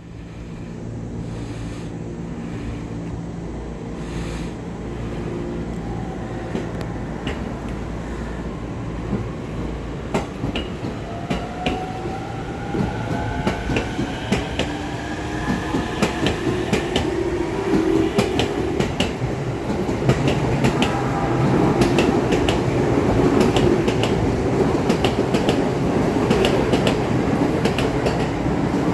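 JR East E231-series and E233-series electric multiple units pulling away and accelerating: the motors' electronic whine rises in pitch, and the wheels clack over rail joints faster and louder as the train gathers speed.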